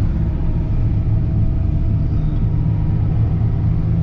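Car engine running with a steady low rumble, heard from inside the vehicle.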